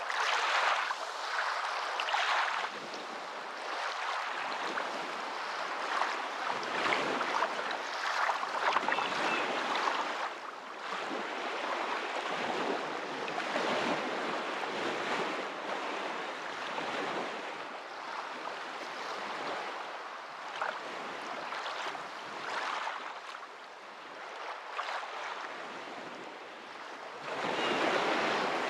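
Moving water, a steady rush that swells and eases every few seconds.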